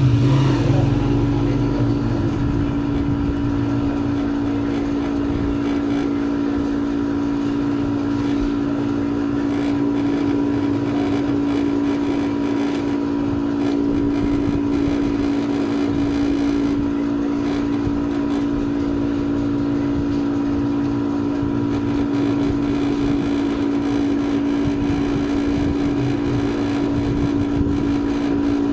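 Steady, unbroken hum of a small motor or machine at one constant low pitch, with no change in speed.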